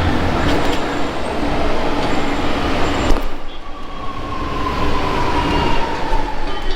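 Street traffic noise heard from a moving bicycle. The sound changes abruptly about three seconds in, after which a thin whine falls slowly in pitch.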